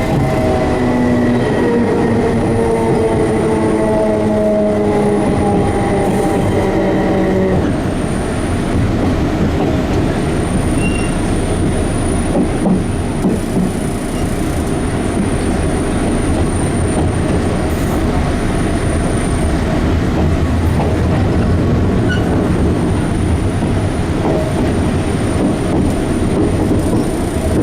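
Enshu Railway 30 series electric train running, heard from inside the car. A whine falls slowly in pitch for the first seven seconds or so and stops abruptly, leaving a steady rumble of wheels on the track.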